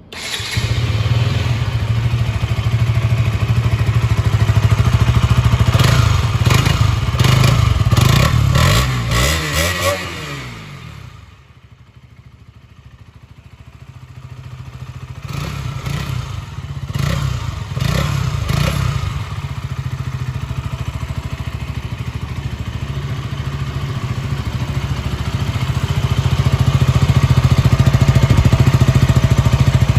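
KTM Duke 200 single-cylinder engine running through its exhaust, revved in a series of throttle blips. About ten seconds in the revs fall away and it goes much quieter for a few seconds. It then picks up with several more blips and settles into a steady run that gets louder near the end.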